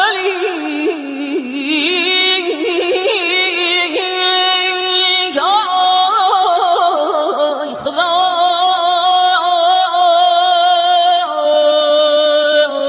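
A husky-voiced singer's long ornamented passage without clear words: wavering trills and slides between notes, with long held notes around the middle and near the end.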